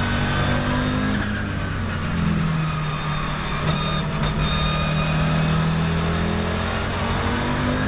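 Audi 200 Turbo Quattro's turbocharged 2.2-litre five-cylinder engine under way. Its pitch drops about two seconds in, then climbs slowly and steadily as the car accelerates.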